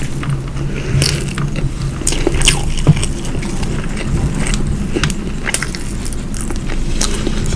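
Close-miked eating sounds: wet chewing and lip smacks in irregular short clicks, over a steady low hum.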